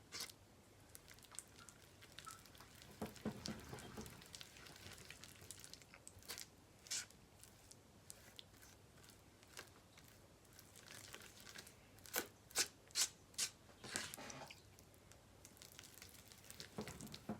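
Faint handling noise: crinkling and tearing of packaging or plastic, with a quick run of sharp crackles about twelve seconds in.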